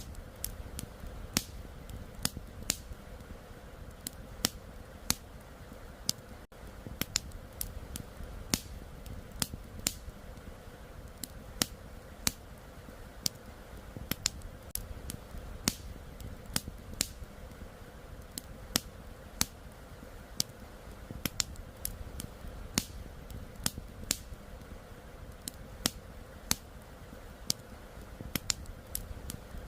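Wood campfire crackling, with sharp irregular pops a little more than once a second over a steady low rush of flowing river water.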